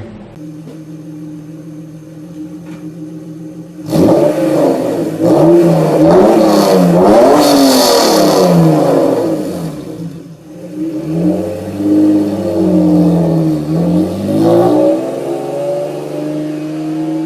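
First-generation Honda NSX V6 exhaust, first running at a steady low note. About four seconds in it is revved hard several times, the pitch climbing and falling with each rev, and it settles to a steady note near the end.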